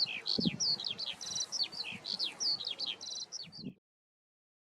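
A songbird sings a fast, continuous song of varied chirps, slurred notes and short trills. The song cuts off abruptly near the end.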